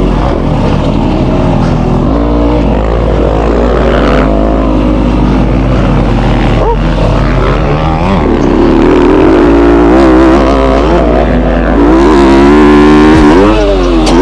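Yamaha YZ250F's single-cylinder four-stroke engine being ridden hard, its pitch climbing and dropping again and again as the throttle is worked through gear changes. It is loudest in two long climbs, one about eight seconds in and another near the end.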